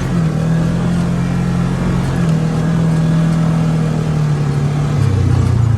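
Vehicle engine running at a fairly steady speed, its pitch shifting in small steps and dropping lower about five seconds in.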